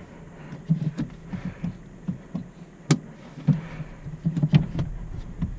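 A string of irregular knocks, thumps and clicks from things being handled in a car cabin, over the low steady hum of the idling Hyundai Elantra engine.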